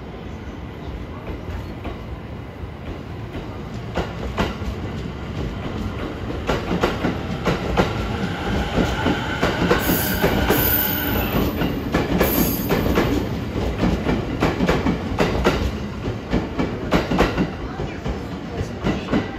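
JR East E231 series commuter train pulling out and accelerating past. Its wheels click over rail joints and points at a quickening rhythm, with a rising electric motor whine from about eight seconds in.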